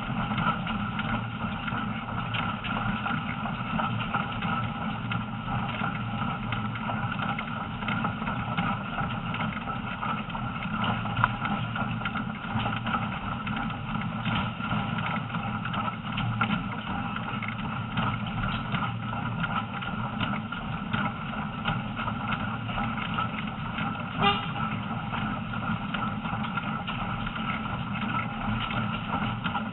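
Train running along the line, heard from on board: a steady, even noise of wheels on the rails, with a couple of brief sharp clicks.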